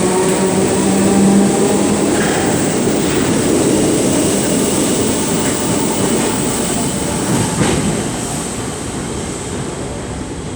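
Merseyrail Class 507 electric multiple unit pulling out of the station, its motors humming with a steady tone for the first couple of seconds over the rumble and clatter of the wheels. The train noise then slowly fades as it leaves, with one sharp clank about seven and a half seconds in.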